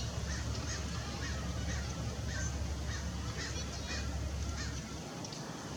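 Several birds giving short calls in quick succession, over a steady low rumble.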